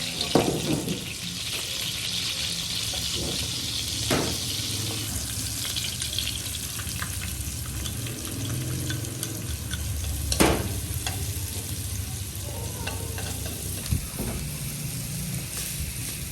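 Food sizzling as it fries in hot oil in a pan and is stirred, a steady hiss with a few sharp knocks of a utensil against the pan, the loudest about ten seconds in.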